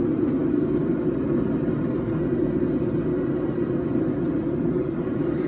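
Forge running with a steady, even rushing noise, strongest in the low range, as it heats a thick billet of 4140 steel that is not yet red.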